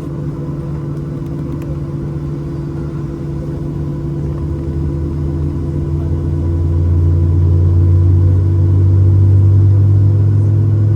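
Steady engine and cabin hum inside a Boeing 737-800, with several constant tones over a low drone. The low rumble grows louder from about halfway through and holds.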